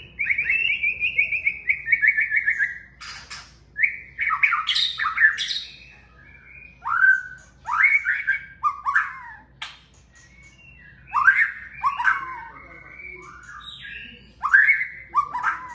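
White-rumped shama (murai batu) singing: a rapid trill to open, then a string of varied whistled phrases with downward sweeps, separated by short pauses, with a few sharp clicks between phrases.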